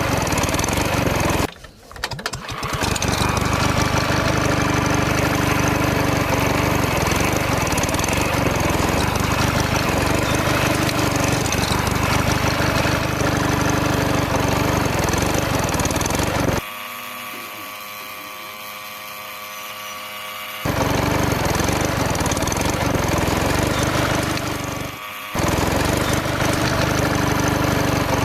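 Small engine running steadily with a loud clatter. The sound drops briefly about two seconds in, runs quieter for a few seconds past the middle, and drops again briefly near the end.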